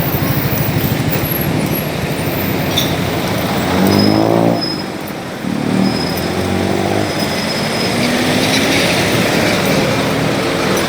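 Busy street traffic: motorcycle and car engines running past close by, with one engine note rising then dropping in pitch about four seconds in as it passes.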